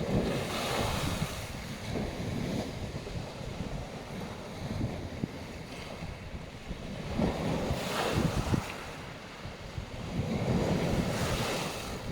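Black Sea waves breaking on a beach, the surf swelling and washing in three times, with wind buffeting the microphone.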